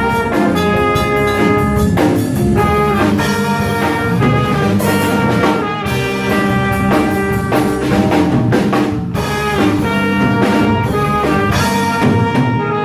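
Live jazz sextet playing, with trumpet, tenor saxophone and trombone carrying the tune over piano, bass and drum kit, with steady cymbal and drum strokes.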